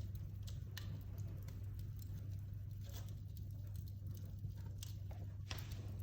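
Fire crackling in a fireplace: irregular small pops and snaps over a steady low hum.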